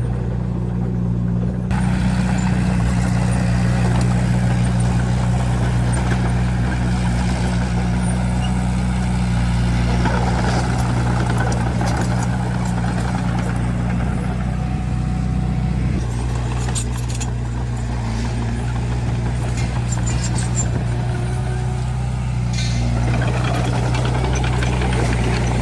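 Diesel engine of heavy earthmoving equipment running steadily under work, with a deep, even engine note. A single brief knock about two-thirds of the way through.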